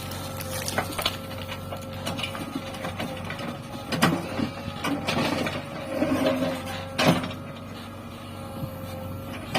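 Diesel engine of a JCB 3DX backhoe loader running steadily with a constant whine, and clanks from the machine at work, the loudest about four and seven seconds in.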